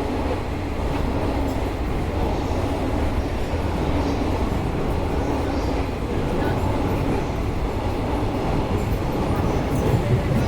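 E231-series commuter train standing at a station platform, heard from inside the car: a steady low hum and rumble from its onboard equipment while it waits with the motors idle.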